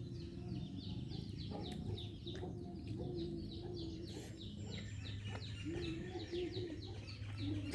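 Small bird chirping steadily in the background, a quick run of short, falling high chirps, over a faint low hum.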